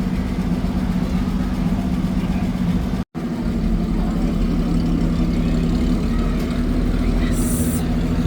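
Fire truck's diesel engine running steadily at low speed, with the sound cutting out abruptly for an instant about three seconds in. A brief high-pitched tone sounds near the end.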